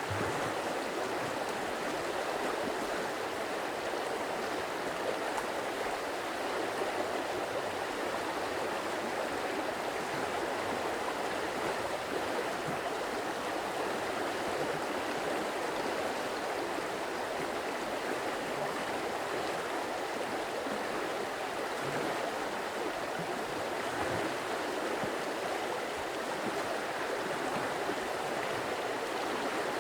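A stream of water flowing, a steady, unbroken rushing and gurgling.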